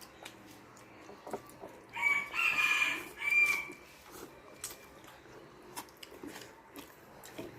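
A rooster crows once, about two seconds in, a loud call lasting about a second and a half. Faint clicks and smacks of eating run underneath.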